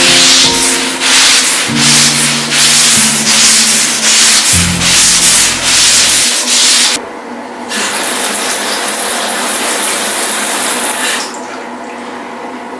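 Brush scrubbing a bathroom surface in rapid back-and-forth strokes for about seven seconds, then a steadier, quieter hiss until shortly before the end.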